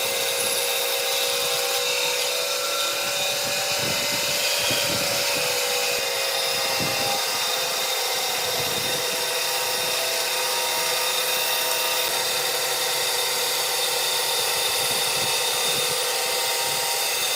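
An electric power tool running steadily on wood: a constant motor whine over even noise, with a few low knocks a few seconds in.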